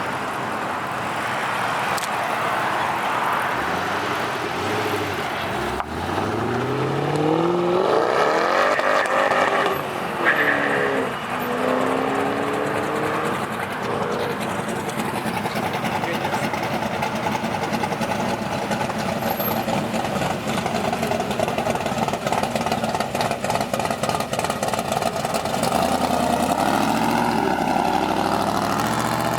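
A car engine revving as the car accelerates. Its pitch climbs for about four seconds from around six seconds in, then drops back, over steady background engine and crowd noise.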